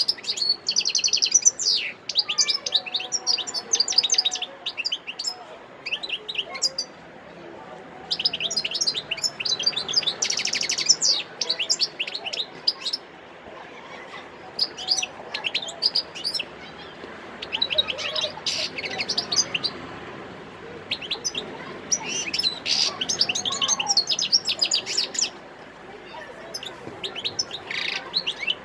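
European goldfinch singing: several bursts of rapid, twittering trills and chirps, each phrase lasting a few seconds, with short pauses between them.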